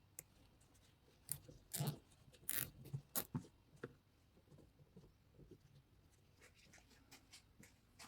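A handful of short clicks and scraping rattles in quick succession, bunched between about one and four seconds in, then only faint scattered ticks: small parts or tools being handled.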